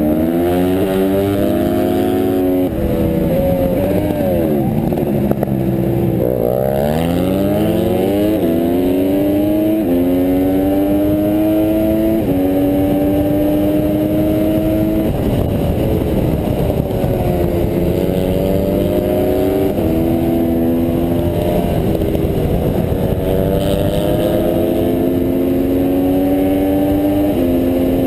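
Honda CRF150R pit bike's single-cylinder four-stroke engine at race pace: it revs up through the gears with a sudden drop in pitch at each upshift, and a few times falls away in pitch as it slows for corners.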